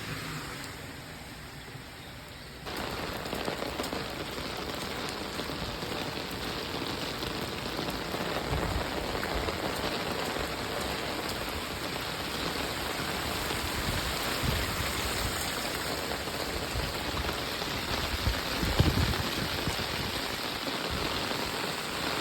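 Heavy rain pouring down steadily, jumping louder about three seconds in, with a few brief low thumps underneath.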